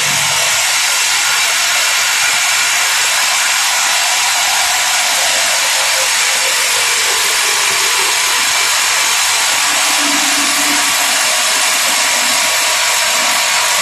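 Simba S7D long-hole drill rig's hydraulic top-hammer rock drill drilling rock through T-38 rods with a 64 mm bit: a loud, unbroken, high-pitched hissing din.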